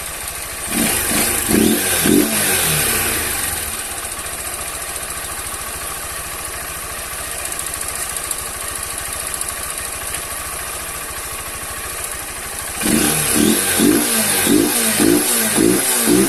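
Honda CG 160 Fan single-cylinder four-stroke motorcycle engine idling while it warms up from a cold start; the engine note rises and falls briefly about a second in, and again in a quick repeated pulse near the end. The owner is waiting for oil to reach the valvetrain, as the valve tapping of a dry, cold engine is meant to fade once it is lubricated.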